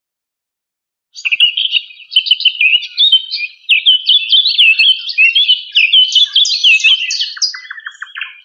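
A songbird singing a fast, varied run of high chirping and warbling notes, starting about a second in.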